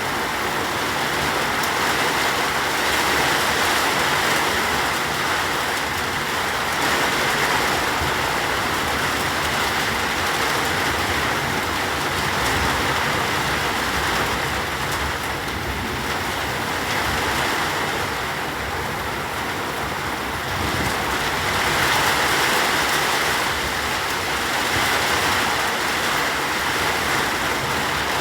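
Steady rain falling, a dense even hiss that swells and eases a little.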